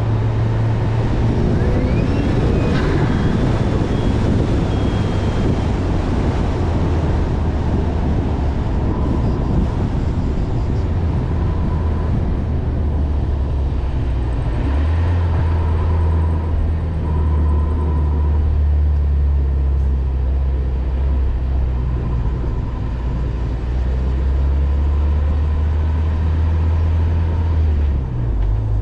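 Ford Focus RS Mk3's turbocharged 2.3-litre four-cylinder engine and exhaust driving at road speed, a steady low drone with tyre and road noise. The revs rise briefly a couple of seconds in, and the engine settles into a deeper drone about halfway through.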